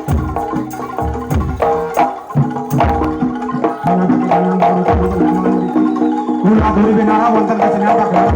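Live jaranan dor music: a Javanese ensemble of drums and tuned gongs and metallophones playing a driving rhythm, with deep bass-drum beats, sharp hand-drum strokes and ringing pitched tones. A wavering, held melody line joins about four seconds in.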